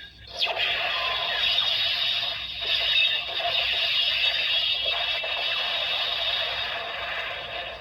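Electronic sound effects from a transforming toy's small built-in speaker: a dense, crackling electric sound that holds steady for several seconds and fades out near the end.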